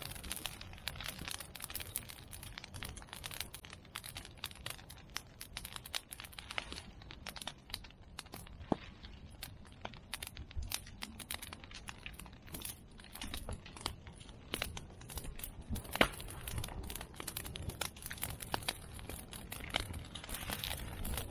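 Open fire of medake bamboo and chestnut prunings crackling steadily, with sharp pops from the bamboo bursting; the loudest pop comes about 16 seconds in.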